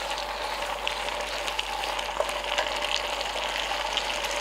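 Pasta with sauce sizzling steadily as it heats through in an electric double skillet. A utensil stirring the food gives a few faint clicks and scrapes.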